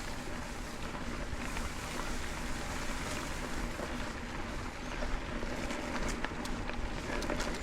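Mountain bike ridden along a dirt trail: steady tyre and trail noise with scattered clicks and rattles from the bike, and wind on the microphone.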